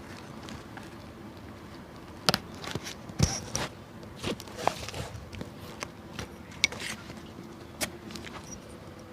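Shoe repair handling sounds: irregular sharp taps, clicks and light scrapes of tools and hands working on an old shoe, the loudest two knocks a couple of seconds in.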